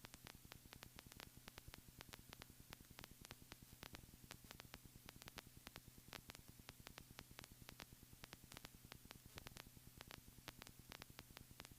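Near silence: faint static crackle with a low steady hum.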